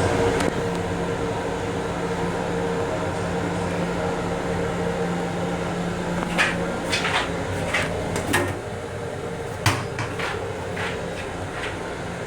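Steady hum of a Long Island Rail Road M7 railcar's running and ventilation, heard from inside its restroom. About halfway through comes a run of about ten sharp clicks and knocks of handled fittings, the loudest a little under ten seconds in.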